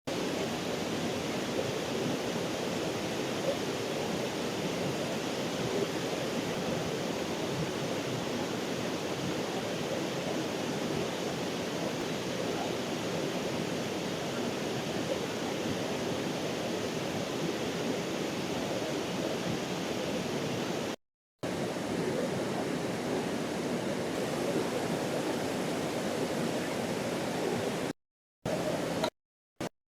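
Steady rush of a waterfall's falling water, an even noise that does not change. It drops out to silence briefly a few times near the end.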